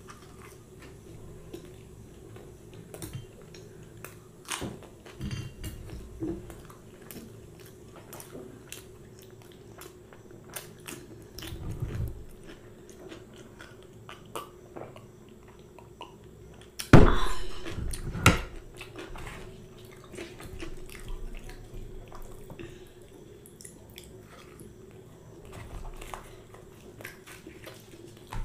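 Close-miked chewing and biting of puri and curry, with many small wet mouth clicks and smacks, and a sip of buttermilk from a glass jar partway through. Two much louder sudden sounds come a little past the middle.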